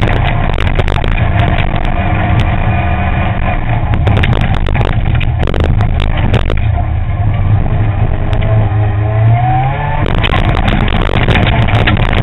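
Onboard sound of an M-Sport Ford Fiesta ST N3 rally car's four-cylinder engine at full effort on a loose-surface stage. The engine note climbs and drops with the gears, with a long rising rev near the end, and sharp clicks of gravel striking the car come throughout.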